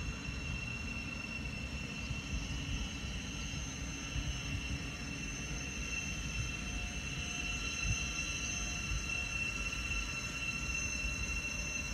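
Electric train on the line: a steady low rumble with a steady high-pitched whine over it.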